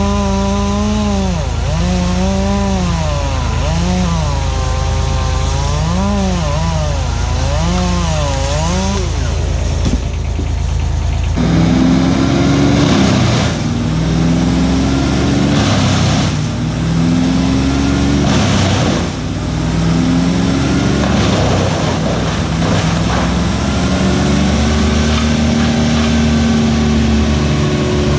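Chainsaw running and cutting, its pitch rising and falling about once a second, over a steady lower engine drone. About eleven seconds in, the sound changes to heavier engine tones that step up and down between held pitches.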